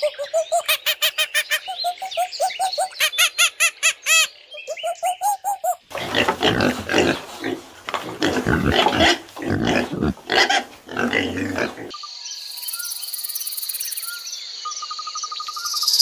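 A primate gives a fast run of rising whoops that speed up. Then pigs grunt and squeal, a sow with piglets at her teats. Near the end comes a steady high buzz, a rattlesnake rattling.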